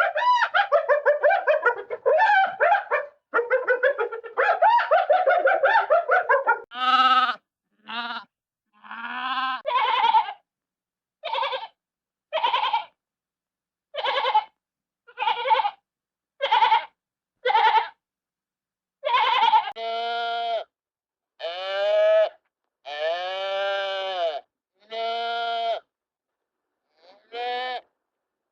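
Hanna-Barbera cartoon sound effects played one after another: a rapid, high, wavering chatter for about seven seconds, then a string of short, separate animal-like pitched cries with pauses between them.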